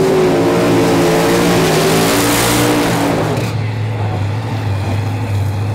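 Drag car's twin-turbo big-block V8 at full throttle down the strip, a steady multi-toned engine note with a rushing swell about two and a half seconds in. About three and a half seconds in it gives way abruptly to a steady low drone.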